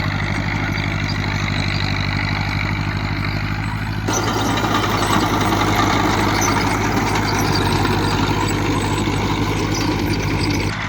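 Fiat 70C crawler tractor's diesel engine running steadily. About four seconds in the sound turns abruptly louder and harsher, and it drops back just before the end.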